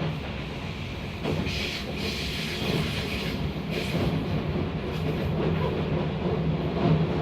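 Keio 5000-series commuter train running, heard from inside the passenger car: a steady low rumble of wheels on rails with a few short clatters in the first few seconds, growing gradually louder.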